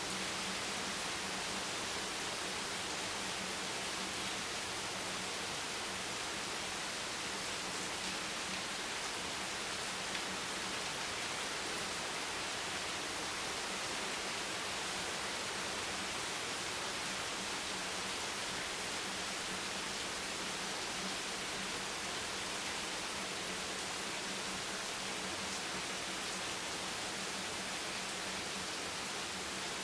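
Steady, even rain hiss with no separate drops or thunder standing out, over a faint low hum.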